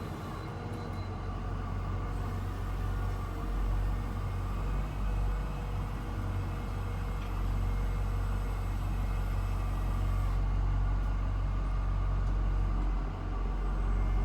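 Box truck's engine running with a steady low rumble, dipping briefly about a second before the end.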